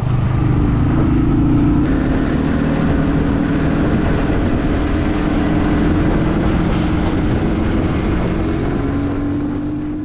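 A vehicle engine running steadily under road and wind noise, with a constant low hum; it fades out at the very end.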